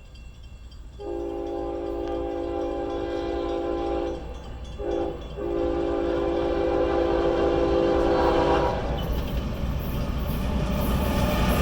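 Freight locomotive's multi-chime air horn sounding a long blast, a short one, then another long one: the close of the long-long-short-long warning for a grade crossing. After the horn stops, the train's rumble grows louder as it approaches.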